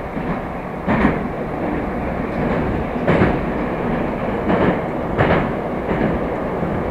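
Moscow Metro "Moskva" electric train running at speed between stations, a steady loud rumble with irregular wheel knocks over rail joints every second or two.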